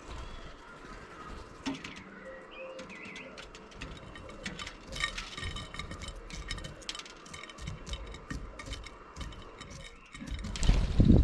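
Starlings feeding at a dish of mealworms right beside the microphone: many sharp ticks of beaks striking the dish, with a few short chirps. Near the end comes a loud, low, close rustling burst.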